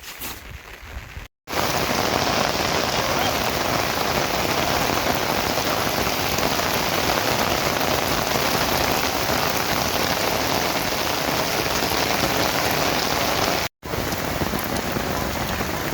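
Heavy rain falling, a loud even hiss, cut off briefly twice: about a second and a half in and again near the end.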